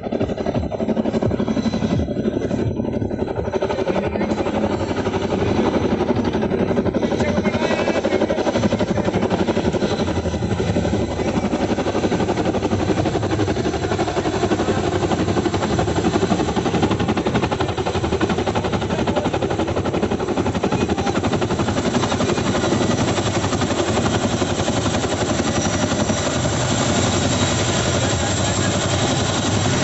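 Boeing CH-47 Chinook tandem-rotor helicopter running, a loud, steady rotor beat and engine noise.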